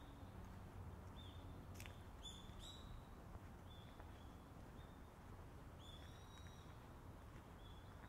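Small birds chirping, with short high chirps coming singly and in pairs every second or so, over a faint low rumble.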